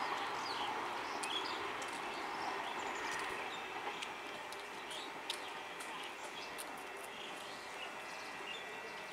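The rail noise of a departing express passenger train fades steadily as it draws away, with birds chirping over it.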